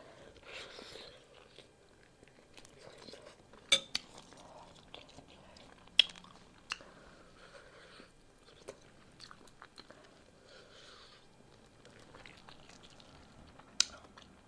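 Close-up chewing and biting of a piece of beef, with wet mouth sounds. A few sharp clicks stand out, about four and six seconds in and again near the end.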